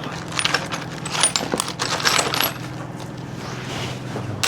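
Small metal tools and parts clinking and rattling as they are rummaged through, a quick run of clicks and light metallic rings that thins out about halfway through, over a steady low hum.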